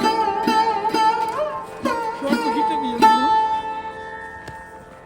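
Background instrumental music on a plucked string instrument played in a sitar-like style: a few struck notes that bend and slide in pitch over a held note, fading near the end.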